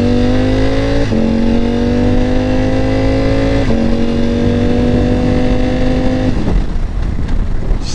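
Ducati Panigale V4 sportbike engine accelerating hard, its note climbing steadily in pitch in each gear, with two quick upshifts about one and four seconds in. The throttle closes at about six seconds, and wind rush runs underneath.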